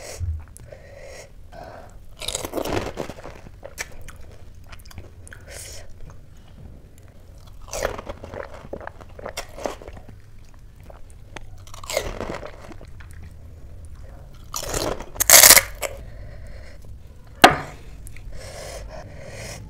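Close-up biting and chewing of pani puri: hollow fried puri shells crunching and cracking between the teeth with wet chewing of the filling and spicy pani. Several separate crunches, the loudest about three-quarters of the way through, then a short sharp crack.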